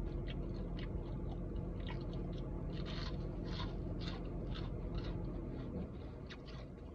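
Close-up chewing of crunchy battered fried food, crisp crunches about one or two a second.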